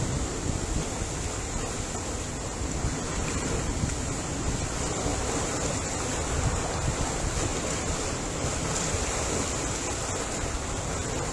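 Ocean waves surging and washing in a steady, even wash of surf, with no single crash standing out and no voices or music.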